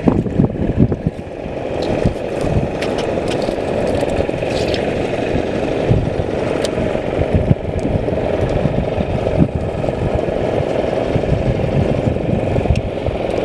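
Fishing boat's engine running steadily, a dense low rumble with a few short clicks over it.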